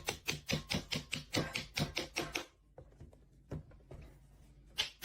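A rapid series of sharp clicks or taps, about five a second. They stop about two and a half seconds in and start again near the end.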